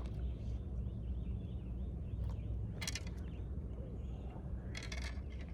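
Short clicking rattles of a spinning fishing reel as line is pulled off, twice, about three seconds and five seconds in, over a steady low outdoor rumble with faint birds chirping.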